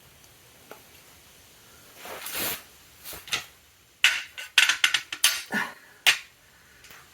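Irregular sharp clicks and knocks of tools and metal parts being handled while the motorcycle's oil filter is taken out, with a quick cluster of them about four to six seconds in.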